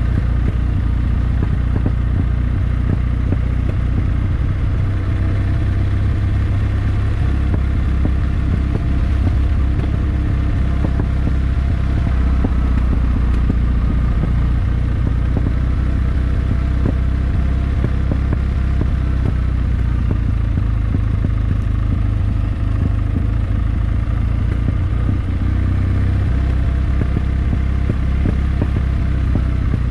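Kawasaki W650's air-cooled parallel-twin engine running at steady, moderate revs, its pitch drifting only slightly up and down.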